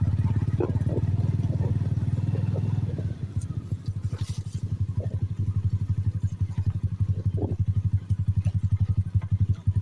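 A small engine running at idle, a fast, even putter of about ten beats a second.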